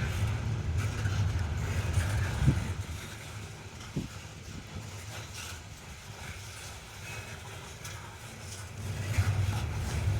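Coal train rolling past with a steady low rumble. It drops away about three seconds in and comes back near the end, with two short knocks early on.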